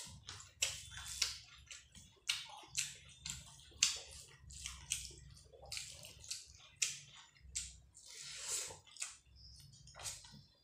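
Close-up eating sounds: wet chewing and lip-smacking of a mouthful of rice and chicken masala, many short squelchy clicks about two or three a second.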